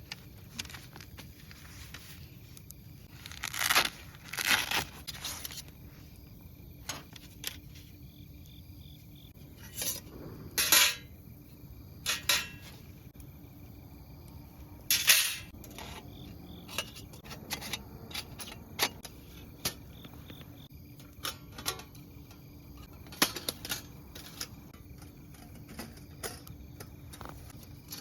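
Light metal clinks and clatter at irregular intervals, as parts of a small folding metal wood stove are handled and fitted together; a handful of sharper knocks stand out, the loudest about 15 seconds in.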